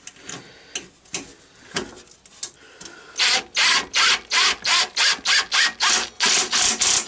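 A self-tapping screw being driven in by hand into sheet metal, in a run of about eleven even grinding strokes at two to three a second, after a few light clicks of handling.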